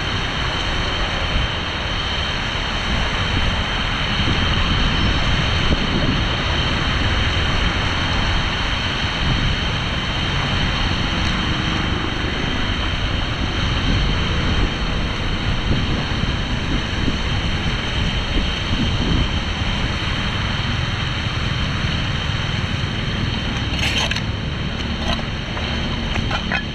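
Floodwater steadily rushing and draining into an unclogged street storm drain, a continuous loud rush, with a few brief clicks near the end.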